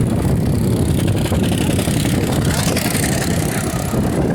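Loud, choppy wind rumble buffeting the microphone, as when filming on the move outdoors on a bike.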